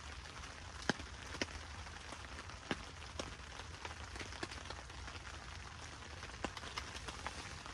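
Rain falling on the tent: a steady hiss with scattered sharp taps of single drops.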